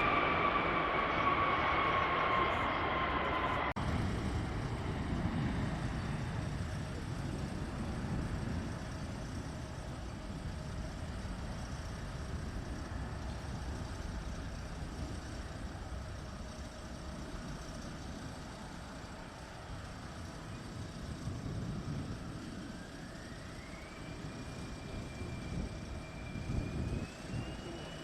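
Jet airliner engines: a high whine falls in pitch as the aircraft passes, cut off abruptly about four seconds in, followed by a steady low jet rumble; late on, a whine rises in two steps as engines spool up.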